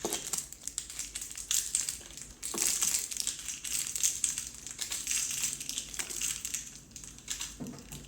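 Packaging of washing machine cleaner tablets crinkling and crackling as the tablets are unwrapped by hand.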